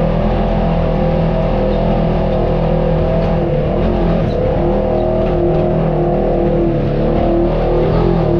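An off-road vehicle's engine running steadily, its pitch wavering slightly as the throttle changes.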